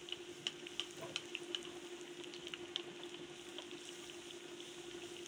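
Besan-battered bread sandwich shallow-frying in hot ghee in a pan: a steady sizzle with sharp crackling pops, most of them in the first two seconds. A faint steady low hum runs underneath.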